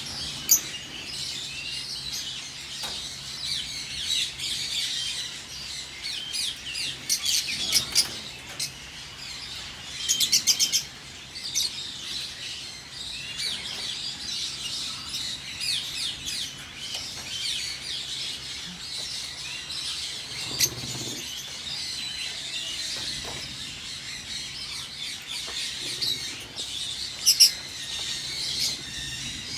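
A flock of lovebirds chattering continuously with high chirps, broken by louder sharp calls now and then, including a quick run of shrill calls about ten seconds in.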